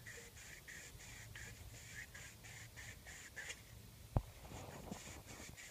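Sandpaper rubbed back and forth on a PVC pipe fitting, in quick scratchy strokes about three a second, pausing briefly and then starting again, with one sharp click about four seconds in.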